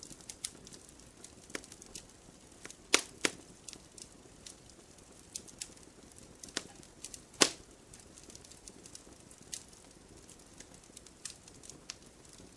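Wood fire crackling: irregular snaps and pops over a faint steady hiss, with the loudest pops, a quick pair, about three seconds in, and another sharp one past the middle.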